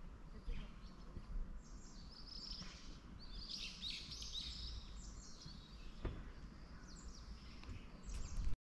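Outdoor ambience of birds chirping over a low steady rumble, with a few sharp knocks; the sound cuts off suddenly near the end.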